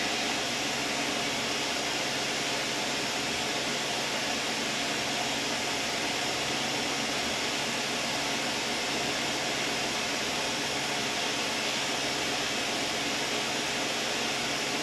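Steady, unchanging rushing noise of a fan or air mover, with no tool strikes or clicks.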